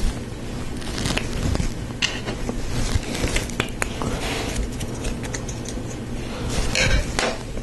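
Plastic Lego Technic pieces clicking and rattling as they are handled and pressed together: a string of irregular sharp clicks with rustling scrapes, busier near the end.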